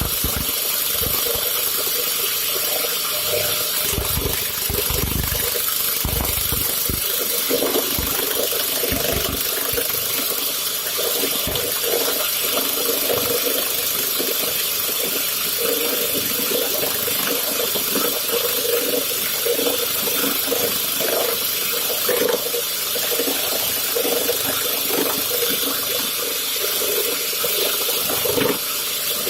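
Wood lathe running while an abrasive stone grinds a spinning steel workpiece down toward a ball: a steady hissing grind with small irregular scratches.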